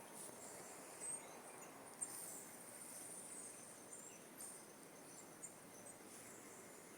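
Faint outdoor ambience of insects chirping steadily in a high band, with two brief soft knocks in the first two seconds.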